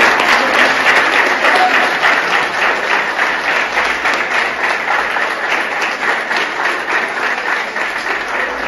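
A group of people applauding, dense hand clapping that slowly dies down.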